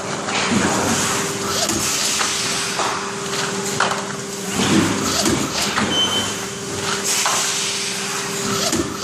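A machine running with a steady hum, with irregular knocks and clatter over it.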